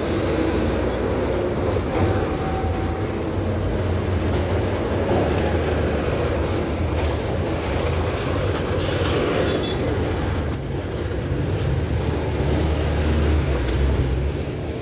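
Steady road noise while cycling in motor traffic: wind rushing over the microphone and the low rumble of passing vehicles.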